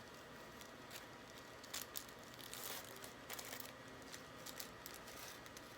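Faint rustling and crinkling with scattered light clicks as a small packaged item is handled.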